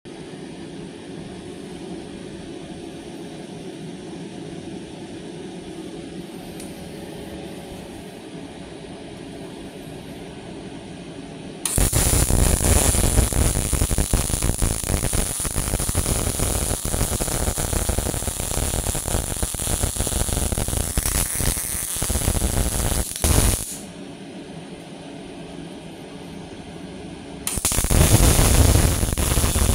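MIG welding arc crackling and sizzling steadily for about twelve seconds, then stopping, and striking again near the end. Before and between the welds a steady low hum runs.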